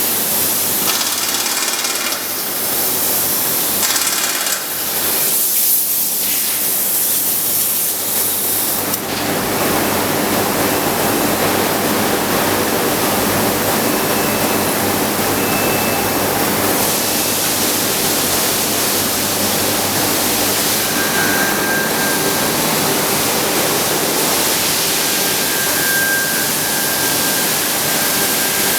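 Carousel rotational moulding machine running: a steady mechanical rush with hiss, the high hiss coming in several stronger bursts over the first nine seconds or so. Later, a faint thin whistle comes and goes.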